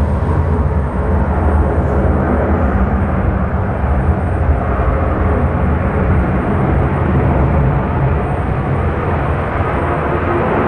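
Loud, steady rumble of aircraft engines, heaviest in the low end.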